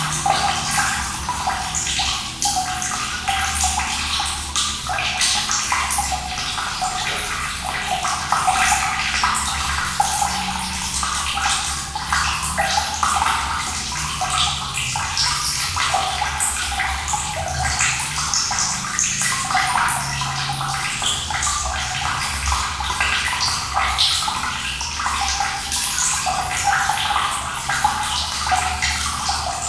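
Running water flowing steadily, with a constant rush full of small splashes and gurgles.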